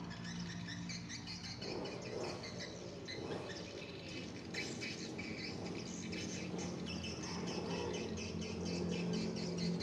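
Many swiftlets twittering, a dense stream of short, high chirps, over a steady low hum.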